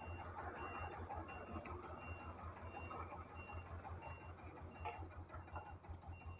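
Faint, high electronic beep repeating evenly, about every half-second, over a low steady hum.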